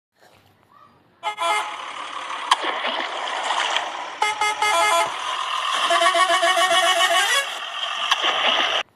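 Electronic toy-vehicle sound effects: a series of horn honks followed by a warbling tone, cutting off suddenly near the end.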